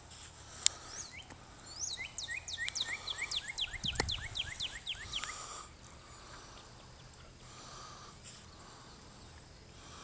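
A songbird singing a fast run of whistled notes, each sliding down in pitch, about six notes a second for some four seconds. There is a sharp click in the first second and a single thump about four seconds in.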